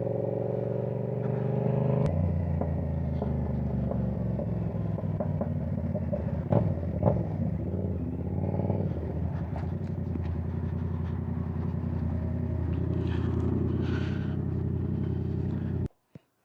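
Yamaha R7's 689 cc parallel-twin engine running through a loud aftermarket exhaust on the move, heard from inside the rider's helmet. The pitch falls over the first two seconds, then holds steady, with two sharp pops about six and seven seconds in, and the sound cuts off abruptly near the end.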